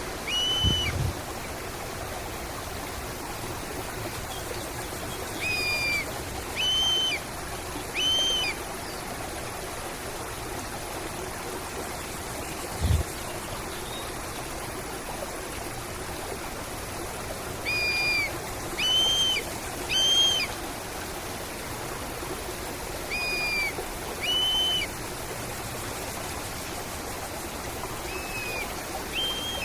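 Steady flowing stream, over which a bird repeats a short, arched whistled call, mostly in groups of two or three, several times. A single soft low thump about halfway through.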